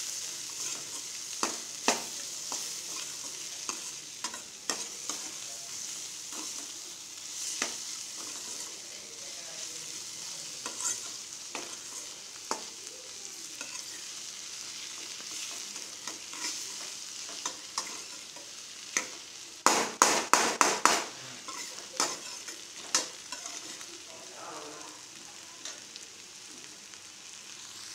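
Chopped bitter gourd and tomato sizzling gently in oil in a stainless steel kadai on a low flame, stirred with a metal spoon that scrapes and clicks against the pan. About two-thirds through comes a quick run of sharp clacks from the spoon against the pan.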